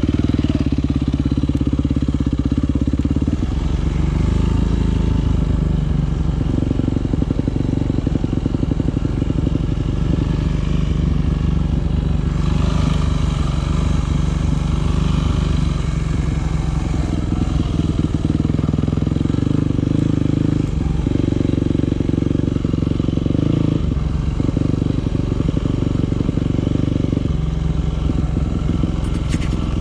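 Yamaha WR250F's single-cylinder four-stroke enduro engine running hard under load, its note stepping up and down every few seconds as the throttle opens and closes.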